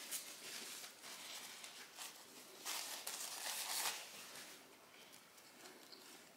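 A person chewing a bite of grilled chicken sandwich with crisp Parmesan crisps, faint, with a louder spell of chewing about three seconds in.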